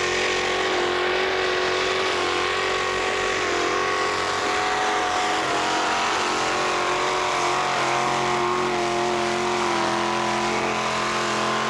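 Pulling tractor's engine running hard under load as it drags a weight-transfer sled: a loud, steady engine note that dips slightly in pitch a couple of times.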